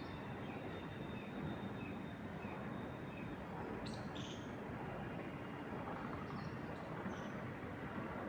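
Wind moving through trees as a steady rushing hiss, with small birds chirping over it: a series of short repeated chirps in the first few seconds, then brief clusters of higher chirps about four seconds in and again near six to seven seconds.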